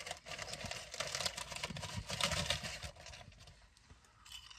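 Close-miked chewing of a mouthful of meat-and-cheese sub sandwich: quick, wet mouth clicks and smacks, easing off about three seconds in.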